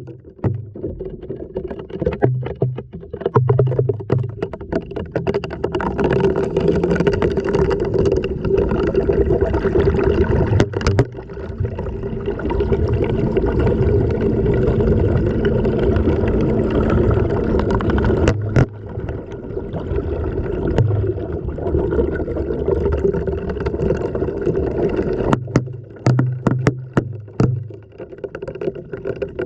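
The inside of a front-loading washing machine drum during a wash cycle, with water sloshing and the load tumbling, heard from within the drum. Sharp knocks and clicks of the camera housing against the drum are scattered through it, more of them near the start and end.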